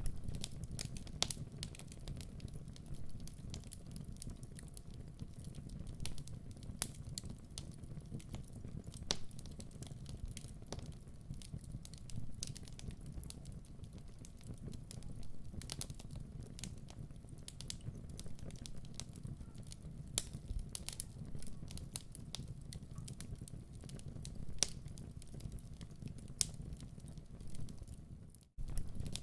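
Wood fire crackling in a fireplace: irregular sharp pops and snaps over a steady low rumble of flames. The sound cuts out for an instant near the end.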